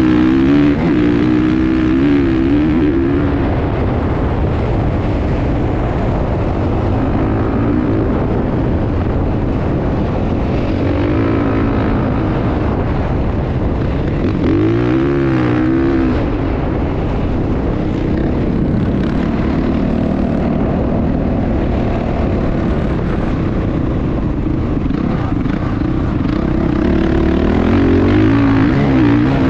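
Motocross dirt bike engines running, their pitch repeatedly rising and falling as the throttle is opened and closed, with one clear rise and fall about halfway through.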